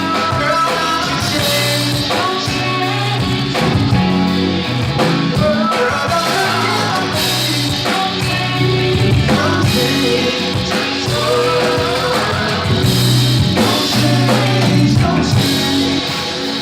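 Live band playing a soul song, with a singer's voice over bass, guitar and drums.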